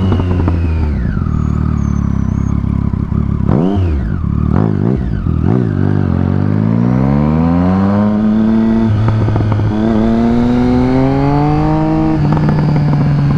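Motorcycle engine running under way: the pitch falls as it slows, swings up and down with a few sharp throttle changes in the middle, then climbs through the gears, dropping at each upshift about eight, ten and twelve seconds in.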